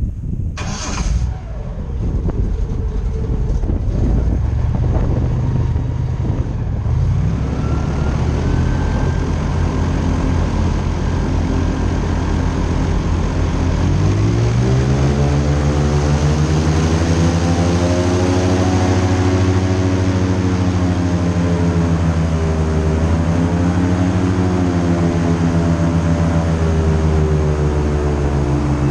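Airboat engine and propeller running, revving up about halfway through to a loud steady drone whose pitch wavers up and down. A sharp knock about a second in.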